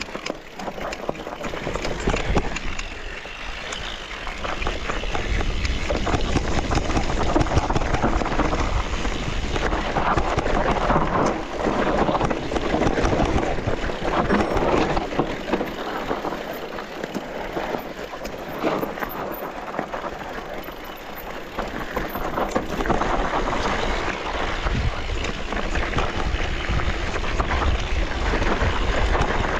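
Mountain bike riding down a dirt forest trail: tyres crunching and rolling over the ground, the bike rattling with many small knocks over bumps, and wind rumbling on the microphone.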